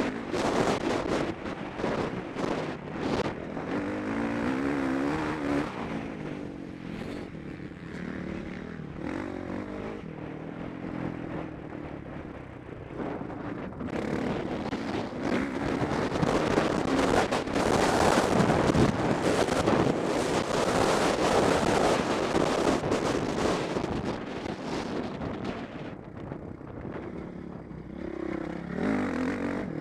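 Motocross bike engine heard close from a helmet camera during a race, revving up and dropping back repeatedly, with short knocks mixed in.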